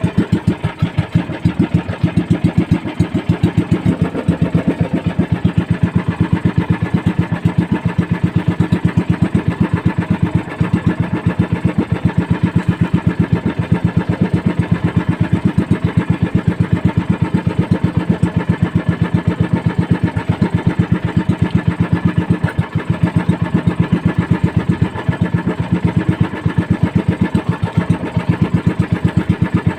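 A small fishing boat's engine running steadily, with an even beat of about five or six pulses a second.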